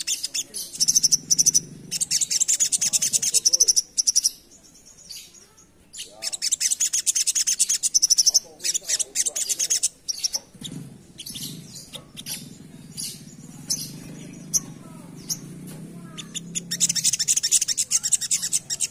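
Little spiderhunter (sogok ontong) singing its rapid chattering 'ngerap' song: fast trains of high notes in bursts of a few seconds, with scattered single calls in between.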